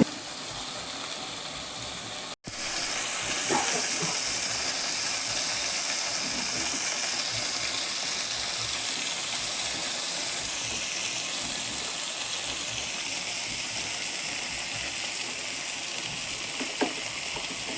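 Green-masala chicken frying in a hot pan: a steady sizzle, broken by a brief cut about two seconds in and then carrying on evenly.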